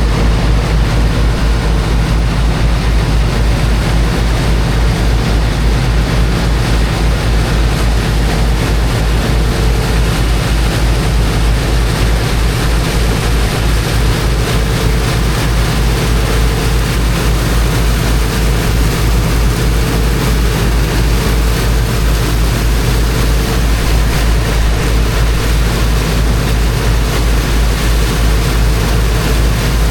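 Engine-driven high-pressure water pump running steadily with a fast low throb, under the even rush of its water jet.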